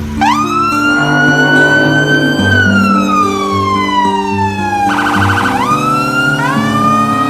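An electronic siren-like tone: it rises quickly, drifts slowly higher, then falls for about two and a half seconds. About five seconds in it warbles briefly and rises again. Under it runs background music with changing low notes.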